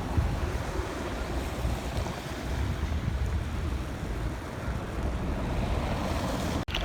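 Wind buffeting the microphone outdoors, a steady low noise that rises and falls unevenly.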